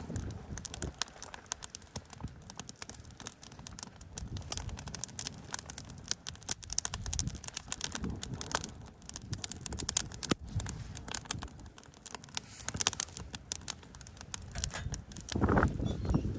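Wood campfire crackling, with frequent sharp pops and snaps of burning wood. A short, louder low sound comes near the end.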